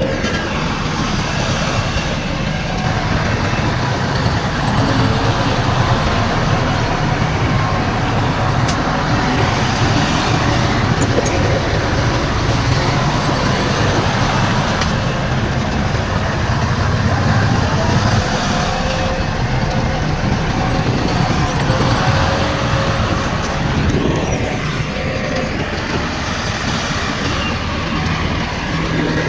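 Heavy diesel earthmoving machinery running steadily with a deep rumble, its engine note rising and falling at times.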